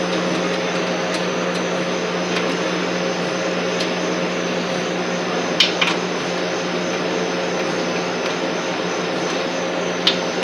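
A steady machine drone with an even hum, like a shop fan or compressor running, with a few sharp tool clicks: two about halfway through and one near the end.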